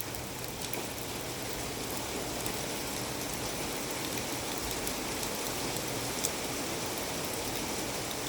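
Heavy rain falling steadily, with scattered sharp ticks of individual drops striking nearby surfaces.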